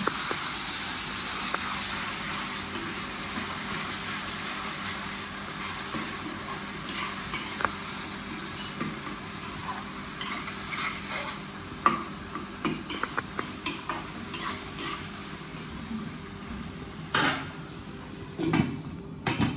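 Food sizzling in a pan while being stirred, the utensil knocking and clinking against the pan now and then, with a couple of sharper knocks. A steady low hum runs underneath.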